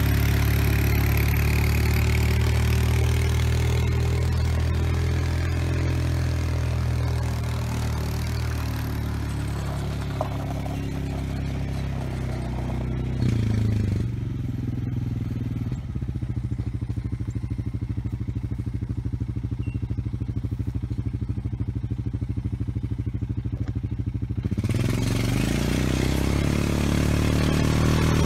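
ATV engine running steadily under load as it pulls a land planer through dirt, with a gritty scraping noise over it for roughly the first half. About halfway through it settles to a steadier, cleaner note, then picks up again near the end with its pitch rising.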